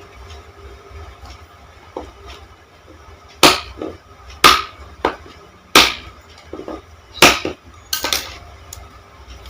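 Teeth biting and tearing into a hard green sugarcane stalk: five loud, sharp cracks roughly a second apart, starting about three and a half seconds in, with fainter crunches between.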